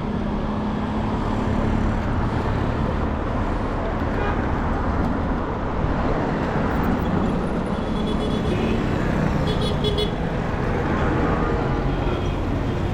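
Busy city street traffic: vehicle engines running and road noise in a steady din, with a few short high horn toots about two-thirds of the way through and voices mixed in.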